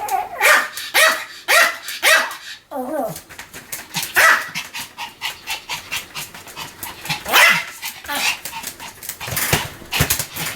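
Pomeranian barking in sharp, high-pitched yaps: a quick run of four about half a second apart, then single barks spaced further apart.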